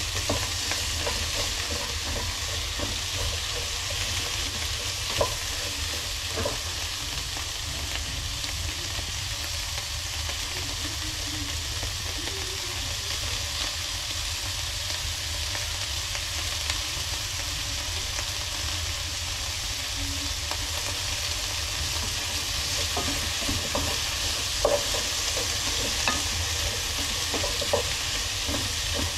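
Vegetables sizzling as they fry in a pan: a steady hiss, with a few short clicks and taps of a utensil against the pan as they are stirred, more of them near the end.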